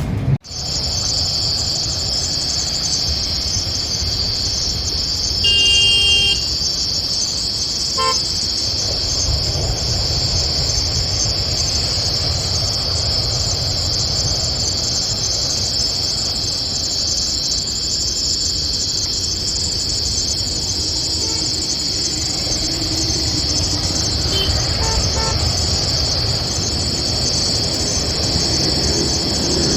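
Steady, high-pitched chorus of crickets, with a low rumble beneath. A short horn-like toot sounds about six seconds in.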